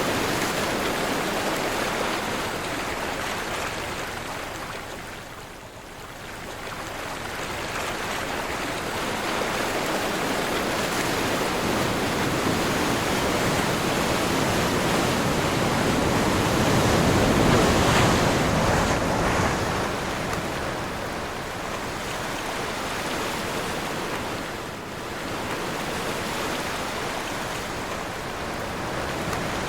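Ocean surf and wind: waves surging and washing in a continuous rush that swells and ebbs, falling to a lull about six seconds in, building to its loudest a little past halfway, and easing again briefly near the end.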